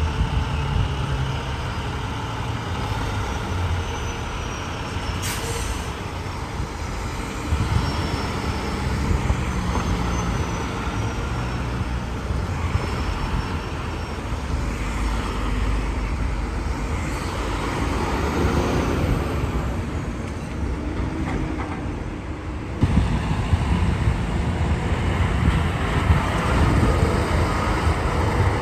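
Road traffic with trucks passing: continuous engine rumble and tyre noise, growing suddenly louder about 23 seconds in as another vehicle comes close.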